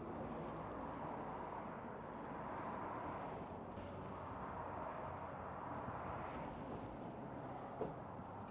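BMW M1000R Competition's inline-four engine idling steadily, with no revving.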